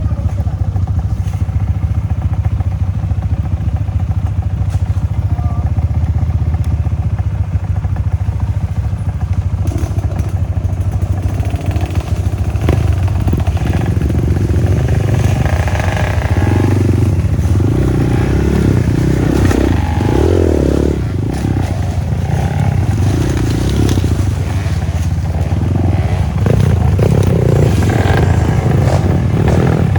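Trail motorcycle engine running as the bike is ridden over rough ground: a steady drone at first, then from about twelve seconds in the revs rise and fall again and again, with knocks and rattles.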